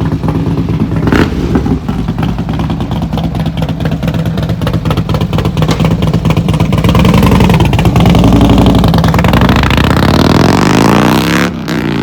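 Motorcycle engine idling steadily, then running louder from about seven seconds in, its pitch rising near the end as it revs or pulls away, before dropping off suddenly.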